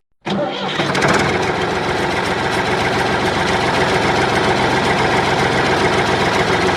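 A motor or engine running steadily and loudly; it starts abruptly just after the beginning and cuts off sharply at the end.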